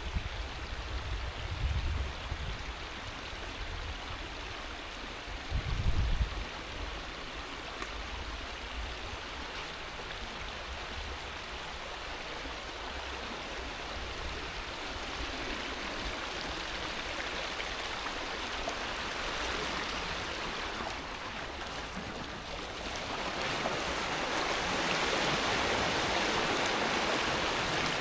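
Water rushing steadily through a breached beaver dam. The rush grows louder about three-quarters of the way through, with two brief low rumbles at about two and six seconds in.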